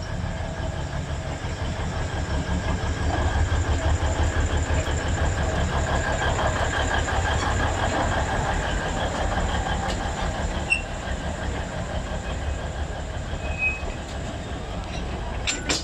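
Alishan Forest Railway train pulling out of the station: the locomotive's low running rumble and the cars rolling over the rails. It swells to its loudest about four to eight seconds in, then eases off as the train moves away, with a few sharp clicks near the end.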